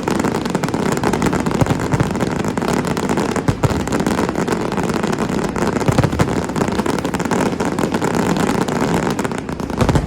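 Fireworks going off in a dense barrage: a continuous mass of rapid bangs and crackling with no gaps, starting suddenly and lasting about ten seconds.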